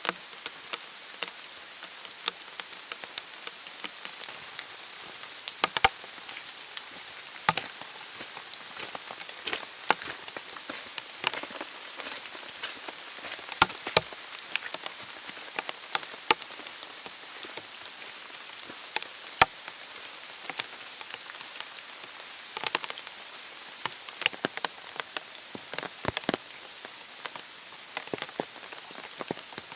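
Steady rain falling in a forest, a constant hiss with many heavy drops striking close by at irregular moments.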